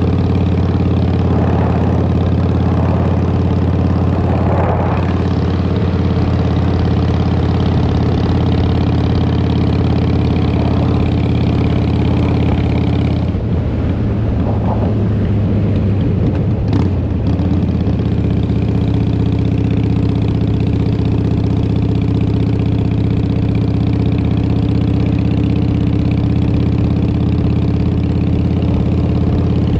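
Harley-Davidson Fat Boy's Twin Cam 88 V-twin running through Vance & Hines pipes, a steady, even exhaust note. About halfway through the note wavers and breaks up for a few seconds, then settles back to steady.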